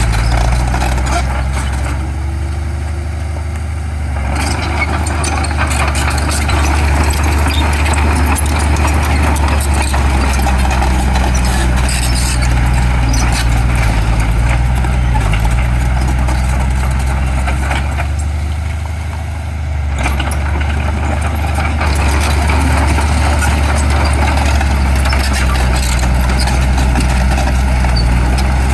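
Heavy diesel earthmoving machinery running steadily, with a deep engine hum that eases off briefly twice, about two seconds in and again near twenty seconds. A few sharp knocks come through over the engine.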